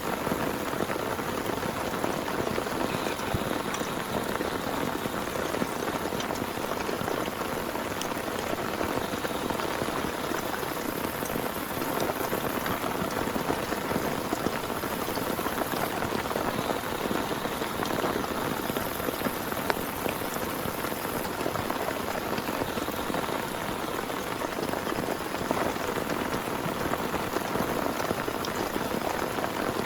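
Heavy rain falling steadily, a dense hiss of drops with many small ticks of individual drops striking a surface.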